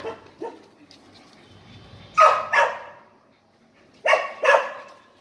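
Small dog barking: two pairs of short, high-pitched barks about two seconds apart, with a couple of fainter barks near the start.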